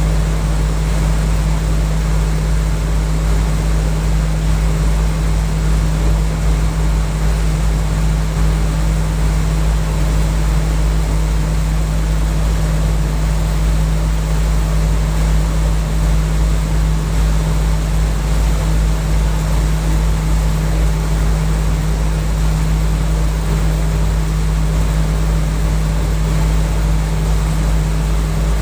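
Package air-conditioning unit running steadily: a loud, constant low hum with a steady drone over an even rushing noise.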